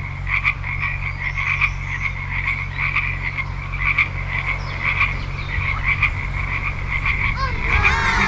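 A chorus of pond frogs croaking continuously, many rapid pulsing calls overlapping, with a steady low rumble beneath. Near the end a falling, sliding sound of several tones comes in over the chorus.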